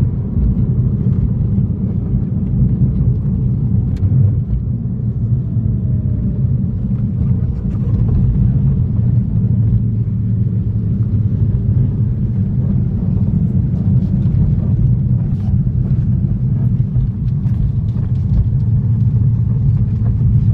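1990 Porsche 964's air-cooled flat-six on the move, a steady low rumble of engine and road noise while driving.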